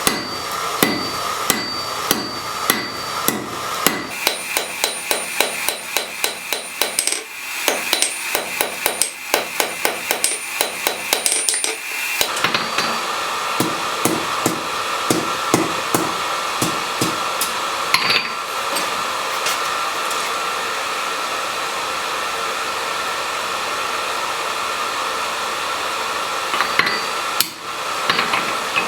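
Blacksmith's hammer striking hot steel on an anvil: steady blows at first, a faster run of lighter blows for several seconds, then spaced strikes that thin out to a few scattered knocks in the second half, over a steady hum.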